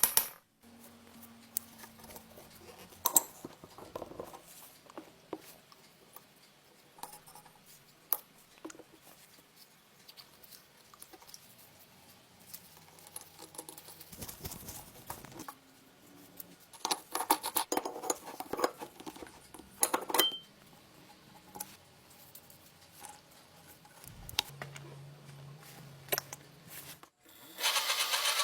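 Small metal parts and hand tools being handled during a restoration: scattered light clicks, taps and short scrapes, with a busier run of rattling and scraping about 17 to 20 seconds in.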